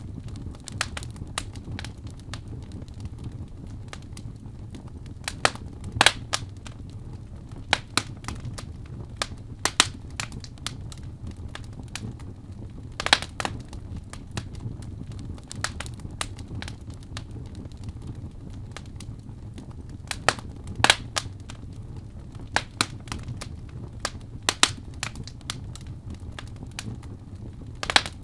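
Wood fire burning in a fireplace: a low steady rumble of flames with irregular sharp crackles and pops, a few of them louder.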